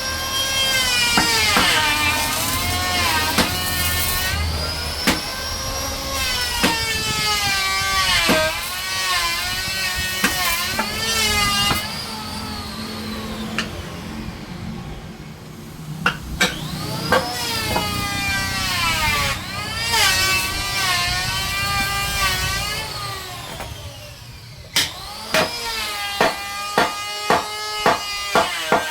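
Electric power saw cutting wood. Its motor whines at a high pitch that sags and climbs back again and again as the blade is loaded in the cut, with sharp knocks in between and a quick run of knocks near the end.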